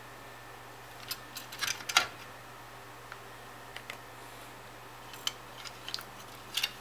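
Scattered light clicks and taps from a graphics card and small tools being handled on a workbench, the loudest about two seconds in, over a faint steady low hum.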